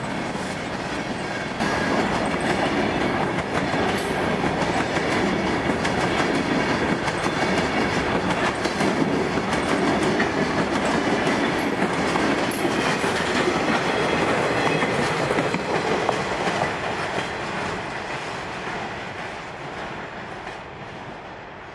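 Freight train of empty open-top cars rolling past at speed, its wheels clicking over the rail joints. It gets louder about two seconds in, then fades away near the end as the caboose draws off.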